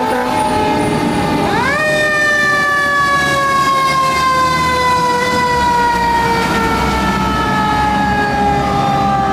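Fire truck's Federal Q mechanical siren winding down. About a second and a half in it is spun up sharply, then coasts down slowly, its wail falling steadily in pitch.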